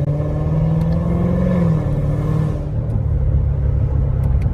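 Sports car engine pulling under acceleration, its note rising slowly, then dropping suddenly at a gear change a little under two seconds in and running on at the lower pitch.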